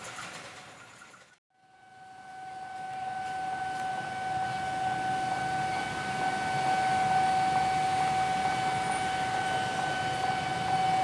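Railway level-crossing warning alarm sounding one steady, unbroken tone, starting about a second and a half in after a brief silence, over a rising background of traffic and rail noise.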